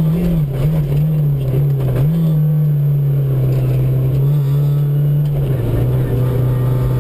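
MG ZR 105 rally car's engine heard from inside the cabin, off the throttle at moderate revs. The pitch wavers briefly, then holds fairly steady and dips a little about five and a half seconds in.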